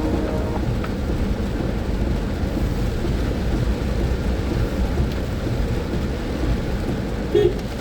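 Heavy rain on a moving car, with a steady low rumble of road noise. A short tone sounds once, about seven seconds in.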